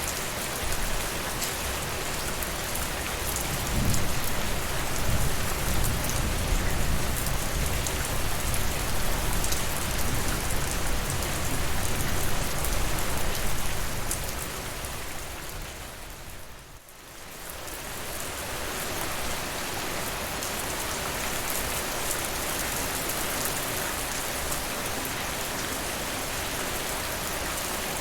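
Steady rain falling on a surface. A low rumble swells about four seconds in and fades by about fourteen seconds, and around two-thirds of the way through the sound briefly dips away almost completely before the rain comes back.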